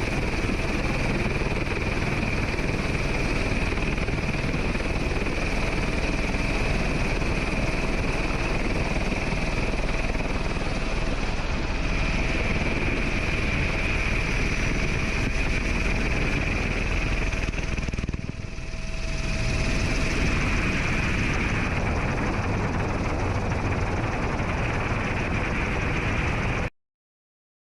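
Helicopter engine and rotor noise, steady and loud with a high whine running through it. It dips briefly about two-thirds of the way through and cuts off abruptly near the end.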